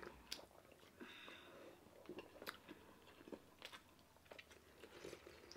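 Faint chewing and small mouth clicks of people eating, spaced irregularly against near silence.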